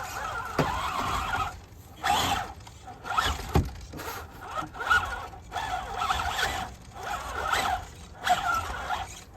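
Electric motor and geared drivetrain of a radio-controlled scale crawler truck whining in stop-start bursts of throttle, with short pauses between them.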